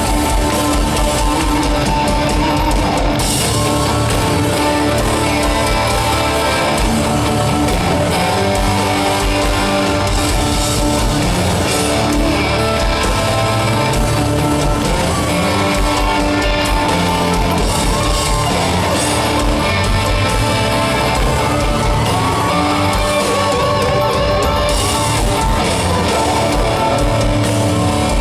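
Live country-rock band playing an instrumental passage: electric guitars over a steady drum beat, loud and continuous.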